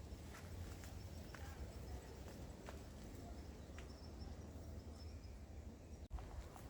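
Faint outdoor background: a steady low rumble with scattered faint clicks, cut by a brief dropout about six seconds in.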